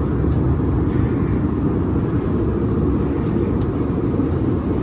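Steady cabin noise of an Airbus A321neo in flight: a deep, even rush of engine and airflow noise heard from inside the cabin.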